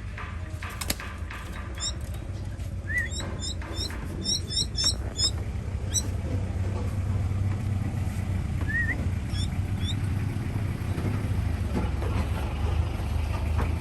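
A baby bird's short, high chirps, in quick runs of several calls with a few single ones later, over a steady low hum.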